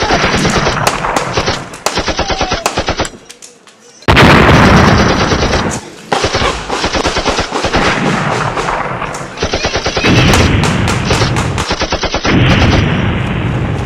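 Automatic gunfire with blank rounds: rapid, evenly spaced shots in bursts. There is a short lull about three seconds in, then louder, near-continuous firing from about four seconds on.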